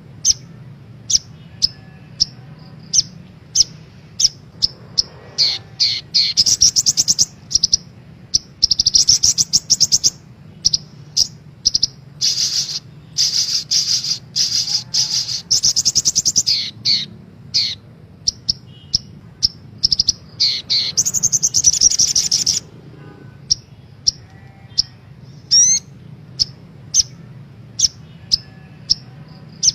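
Little spiderhunter (sogok ontong) calling: sharp high chips repeated about twice a second, broken four times by fast chattering trills lasting one to four seconds, the longest in the middle. A faint steady low hum runs underneath.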